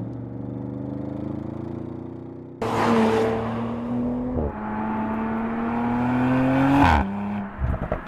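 Audi RS Avant twin-turbo engine and sports exhaust running steadily, then accelerating hard from about two and a half seconds in. The pitch drops once about four and a half seconds in at a gear change and climbs again, then falls off near seven seconds as the throttle is lifted, with a few sharp exhaust cracks near the end.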